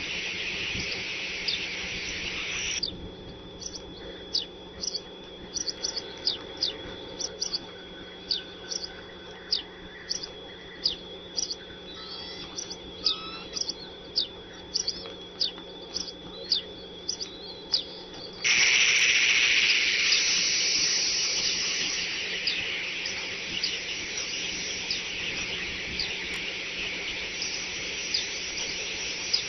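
Short, high, falling bird chirps, one or two a second, over a faint steady whine. A hiss stops about three seconds in; after about eighteen seconds a louder hiss sets in suddenly and slowly fades, with fainter chirps under it.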